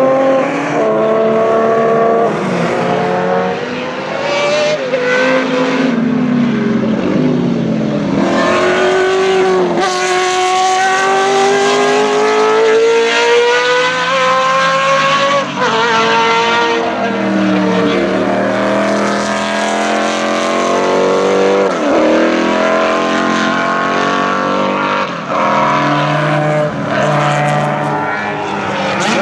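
Racing car engines at high revs, the pitch climbing hard and dropping sharply at each gear change, again and again, with more than one car heard at once as they pass.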